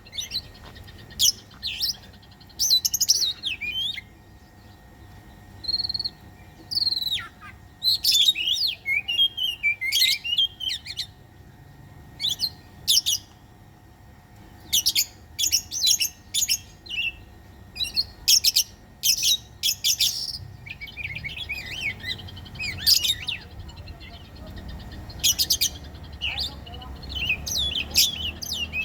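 Oriental magpie-robin (kacer) song: a long run of short, loud phrases of sharp whistles, chirps and rapid trills, with brief pauses between them. It is bait song, played to rouse captive magpie-robins into singing.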